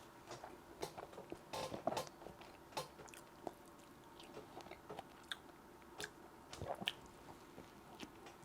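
A person chewing a burger close to the microphone: soft wet mouth sounds and small crackles, busiest about two seconds in and again near the end.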